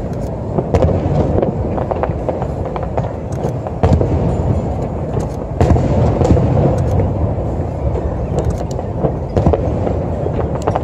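Fireworks going off: many sharp cracks and bangs over a constant low rumble, the loudest bangs about four and five and a half seconds in.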